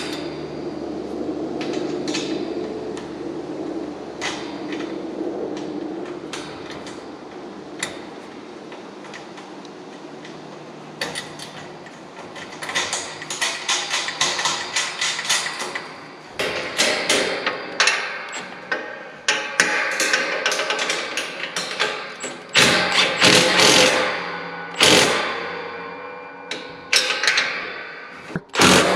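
Metal clanking and knocking from hand tools working on exhaust pipe and clamp hardware. The knocks are sparse at first over a steady hum, then come thick and fast in the second half, with the loudest hits near the end.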